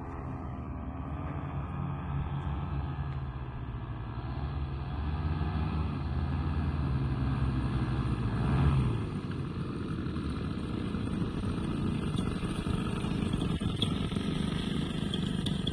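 Twin engines of an ultralight powered hang glider running together with a steady droning pitch. The sound grows louder about five seconds in, with a brief louder swell near nine seconds.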